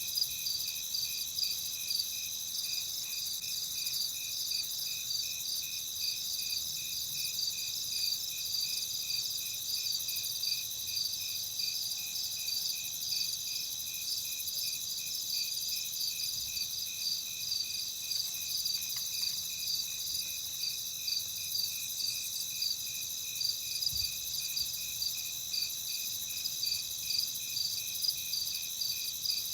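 Night chorus of crickets: evenly repeated chirps over a steady high-pitched trilling.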